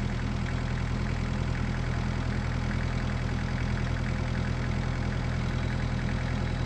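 Kubota excavator's diesel engine running steadily at an even pitch.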